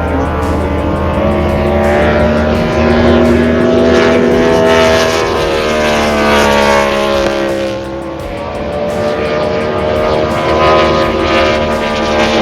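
V8 engine of a 6 litre class circuit racing boat running hard. The engine note climbs, sags with a dip in loudness about eight seconds in, then climbs again.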